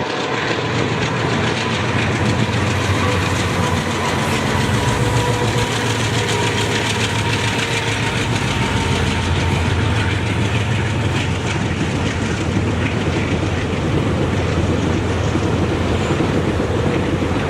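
Train running along the track: a loud, steady rumble with wheel-on-rail clatter.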